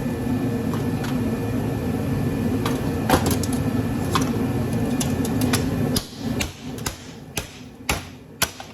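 Hand tools tapping and clinking on metal scrap, a handful of sharp clicks and knocks, over a steady hum that cuts off about six seconds in.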